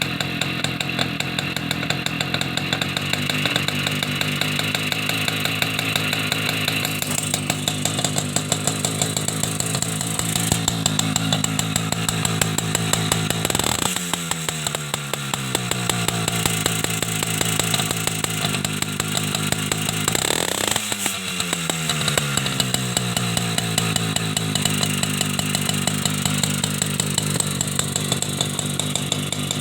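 Small Soviet two-stroke bicycle auxiliary engine from Krasny Oktyabr in Leningrad, running with a fast, buzzing firing rhythm. Its revs dip about halfway through, then are blipped up and fall back about two-thirds of the way through.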